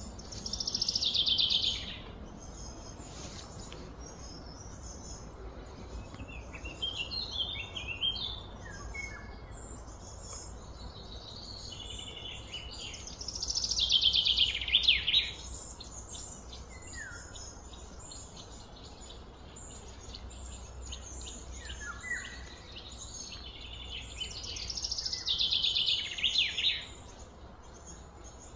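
Bird song: a loud, rapid trilled phrase about two seconds long, repeated three times roughly eleven seconds apart, with scattered short chirps in between, over a steady low background rumble.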